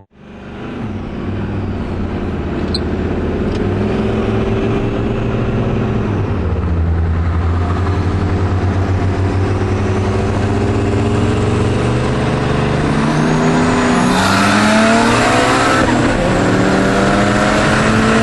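A Chevy Silverado street truck and a turbocharged AWD Mitsubishi Eclipse GSX accelerating hard side by side at full throttle from a roll. The engine pitch climbs and drops back at gear changes about a third and two thirds of the way in, with a rushing hiss near the end.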